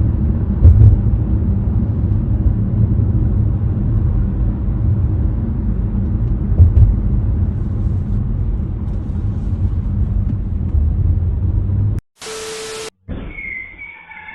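Steady low rumble of a vehicle's road and engine noise as picked up by a dashcam, with two brief louder knocks, about a second in and near the middle. It cuts off near the end into about a second of hiss with a steady tone.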